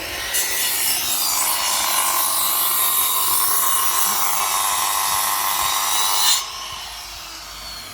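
Electric power tool running under load on wood, a steady high whine that stops suddenly about six and a half seconds in.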